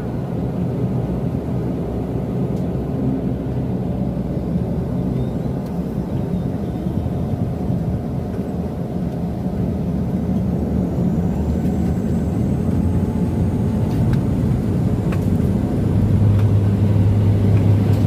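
An airliner's engines heard from inside the passenger cabin: a steady low rumble. About 16 s in it grows louder and a deep steady hum comes in as the engines power up for takeoff.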